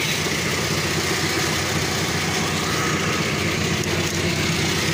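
1981 Plymouth Reliant K wagon's Mitsubishi 2.6-litre four-cylinder engine idling steadily.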